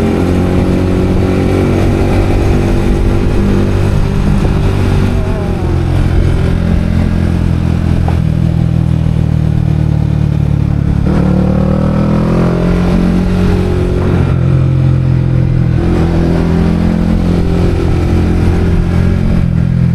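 Motorcycle engine running on the road, its pitch rising and falling with throttle and gear changes.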